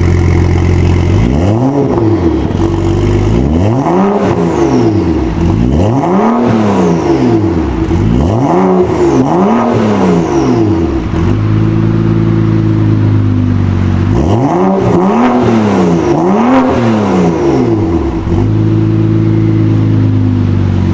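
BMW 535i's N55 turbocharged 3.0-litre straight-six through a newly fitted cat-back exhaust, idling and being revved about seven times in quick blips, mostly in pairs, with the pitch rising and falling back to idle each time.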